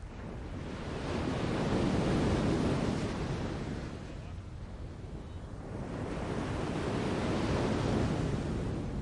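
A rushing, wash-like noise that swells twice: it builds, fades, then builds again near the end.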